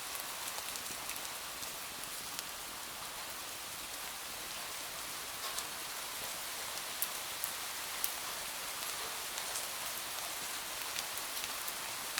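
Steady rain falling, an even hiss, with scattered small sharp clicks.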